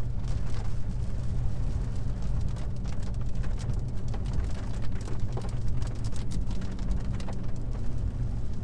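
Steady low drone of a car driving, heard inside the cabin, with scattered raindrops ticking on the roof and windshield as the rain picks up.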